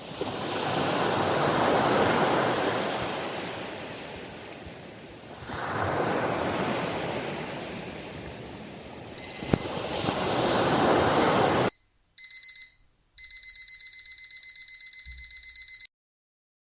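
Ocean waves washing in, two slow swells rising and falling. About nine seconds in, an electronic alarm-clock beeping starts over them; the waves cut off abruptly and the alarm carries on alone in rapid beeps, about five a second, then stops: the Pomodoro timer signalling the end of a 25-minute focus session.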